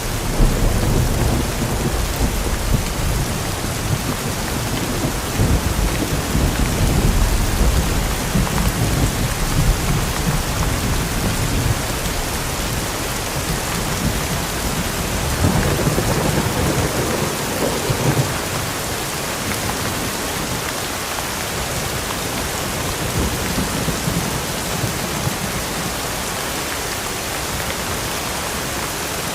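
Steady heavy rain with thunder rumbling low underneath; the rumble swells a little past the middle and then dies away, leaving the rain alone.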